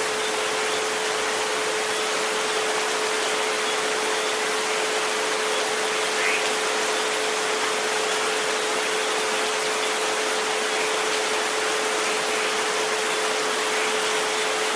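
Steady rain hiss with a continuous pure tone at 432 Hz and a fainter one at 528 Hz held underneath, unchanging throughout.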